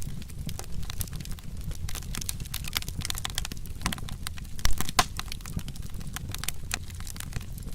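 Wood fire crackling and popping irregularly over a steady low rumble, with one louder pop about halfway through.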